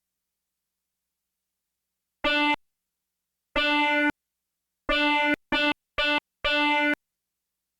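Arturia Buchla Easel V software synthesizer playing six short notes on one same pitch, bright and buzzy with many overtones, each cut on and off abruptly with dead silence between. The last four come in quick succession near the end.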